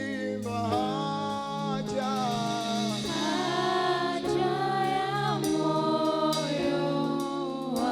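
Church choir singing a slow Swahili gospel praise song with keyboard and bass accompaniment, voices holding long sustained notes.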